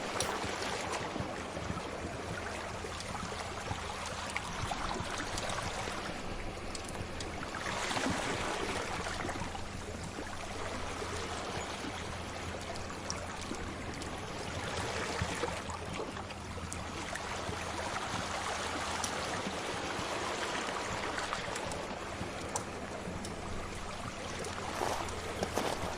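Sea waves washing in slow swells that rise and fall every several seconds, with the small pops of a crackling fire scattered throughout.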